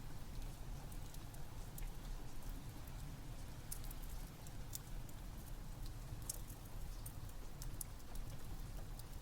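Rain and a crackling wood fire heard together: a steady low rush with scattered sharp crackles and pops throughout.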